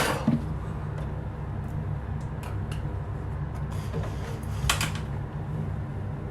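A person gasping and breathing sharply through the burn of a superhot chili pepper: a hard breath right at the start and another about three-quarters of the way through, with a few fainter breaths between, over a steady low hum.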